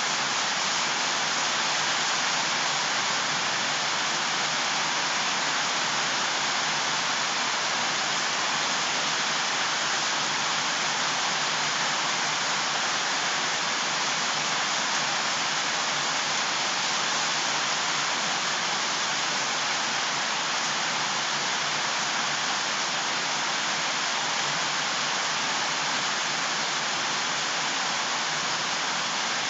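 Steady rush of water, an even hiss with no separate drops or splashes standing out.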